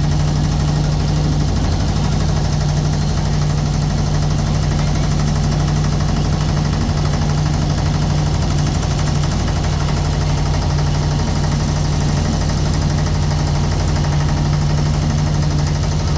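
Motorboat engine running steadily with a constant low hum and an even knocking beat, unchanged throughout.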